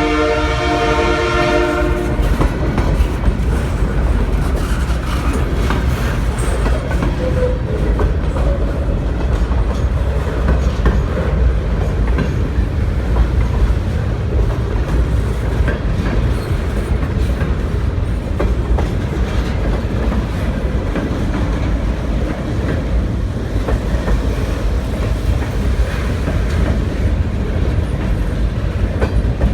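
HO scale model train running on the layout: a locomotive horn sounds for about the first two seconds, then a steady running rumble with the clicking of wheels over the track.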